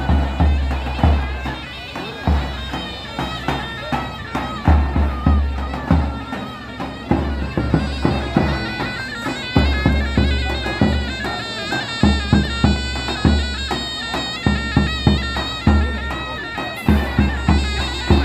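Folk music: a shrill reed wind instrument plays a wavering, ornamented melody over heavy, regular drum beats.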